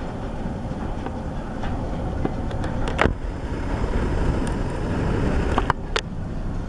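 A line of freight cars moving slowly in a rail yard: a steady low rumbling of wheels on track, with two sharp metallic clanks, about three seconds in and near the end.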